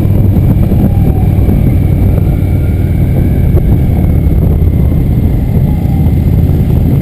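Motorcycle running steadily under way, a loud, dense low rumble with no break.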